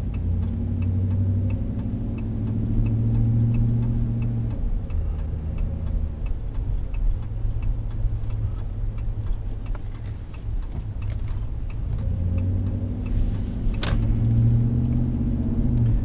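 Cabin sound of a 2014 Dodge Ram 1500's 5.7L Hemi V8 pulling away and cruising, its hum rising in pitch under acceleration near the start and again later. Over it the turn-signal indicator clicks about twice a second and stops at around 12 s; a brief hiss and a sharp click follow shortly after.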